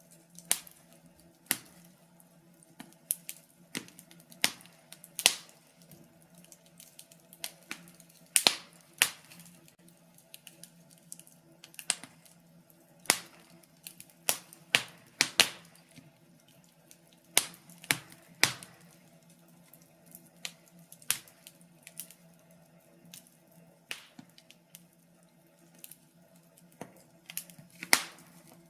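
Wood fire crackling in a fireplace: irregular sharp pops and snaps, a few each second, some much louder than others, over a faint steady low hum.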